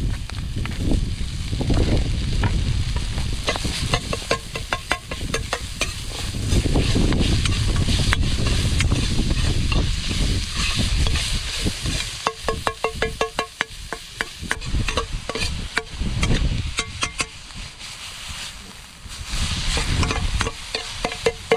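Food stir-frying in an iron wok over a campfire: a steady sizzle under rapid runs of ringing metal clinks as the ladle strikes and scrapes the wok, the clinks coming thickest about halfway through and again near the end.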